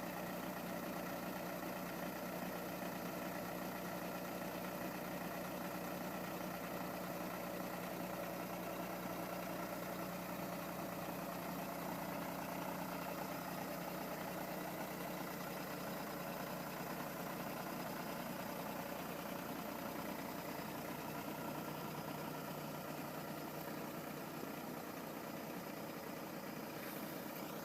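Parked police car's engine idling steadily, an even hum that does not change.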